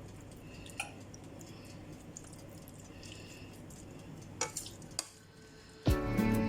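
A spoon clinks and scrapes lightly against a Pyrex glass dish as chicken filling is spooned onto macaroni, with a few small clicks. Acoustic guitar music starts near the end.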